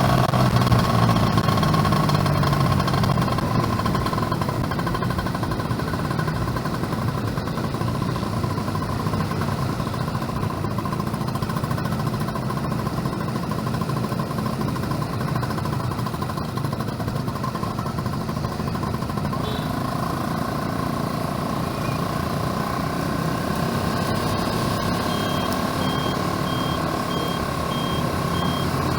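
Yamaha F1ZR two-stroke motorcycle being ridden: the engine runs under steady road and wind noise, its note easing after the first couple of seconds. Near the end a vehicle's reversing beeper starts, beeping at an even pace.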